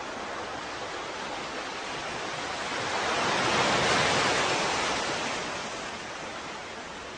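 Ocean waves: steady surf hiss, with one wave swelling about three seconds in, breaking near four seconds and washing back out by about six seconds.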